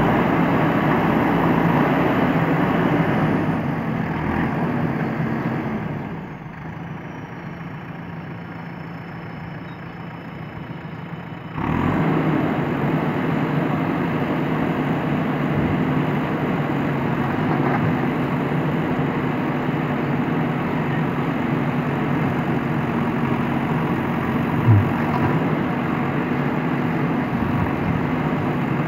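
JCB backhoe loader's diesel engine running steadily. It drops quieter for several seconds, then comes back suddenly louder, and a single short low knock is heard about two thirds of the way through.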